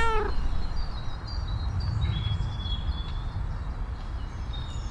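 The end of a cat's meow, rising then falling in pitch, dies away just after the start. Then comes steady low outdoor rumble with a few faint high bird chirps.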